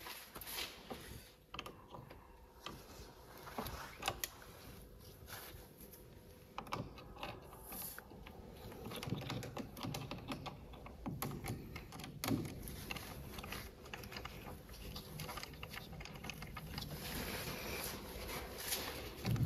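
Scattered light metal clicks and ticks of a hand tool working on a car battery terminal as it is loosened to disconnect the battery.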